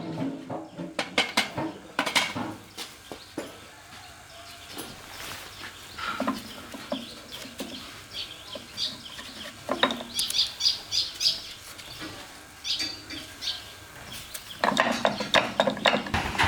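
Irregular metallic clinks and knocks, typical of metal parts and hand tools being handled in a workshop, growing louder and denser near the end.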